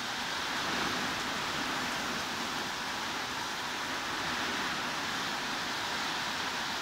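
Heavy rain falling steadily, an even hiss with no single drops or gaps standing out.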